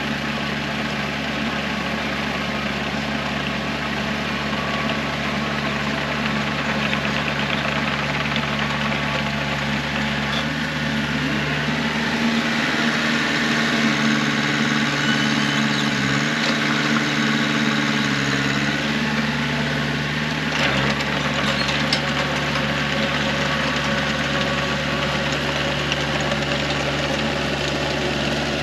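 Engine running steadily, getting slightly louder and changing pitch about a third of the way in, then settling back about two-thirds through with a short knock.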